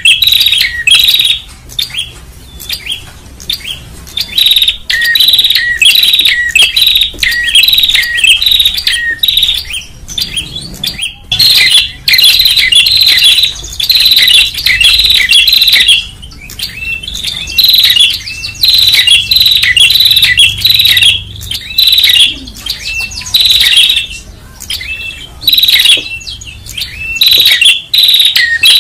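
Prenjak (tailorbird) calling loudly and busily: bursts of sharp, high chirping notes in quick series, several a second, broken by short pauses.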